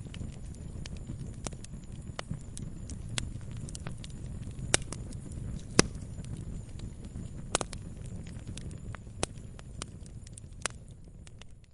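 Wood campfire crackling: irregular sharp pops and snaps over a steady low rumble of the burning fire, two louder pops near the middle, fading out at the very end.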